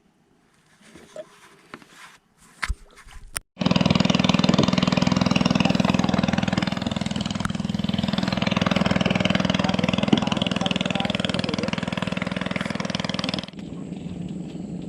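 The boat's 18 HP Ryu engine starts suddenly after a few knocks and then runs loud and steady. About ten seconds later the sound drops abruptly to a quieter steady running.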